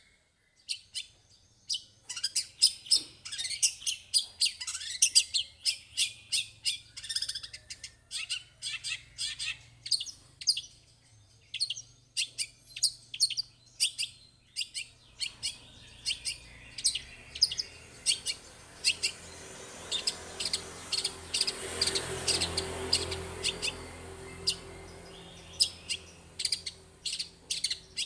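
Long-tailed shrike (cendet) singing a rapid, unbroken string of sharp, high chirps, several notes a second, with a few falling whistled notes early on. A rushing background noise swells in the second half and then eases.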